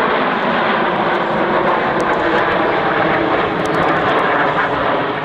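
Red Arrows' BAE Hawk T1 jet trainers flying by: a loud, steady rush of jet engine noise.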